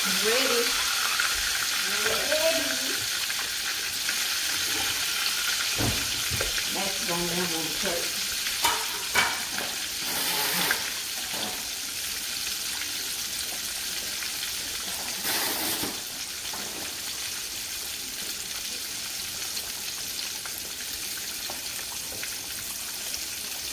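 Whole catfish frying in a pan of hot oil: a steady sizzle, with a few crackles and two louder spurts of spattering about ten and fifteen seconds in.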